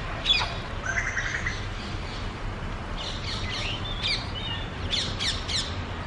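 Wild birds calling: sharp downward-sweeping calls, a short rapid trill about a second in, and a quick run of calls near the end.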